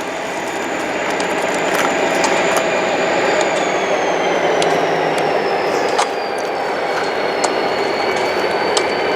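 A train rolling past close by, with a steady rumble and scattered clicks of wheels over the rail joints. A thin, high wheel squeal runs throughout and slowly drops in pitch through the middle.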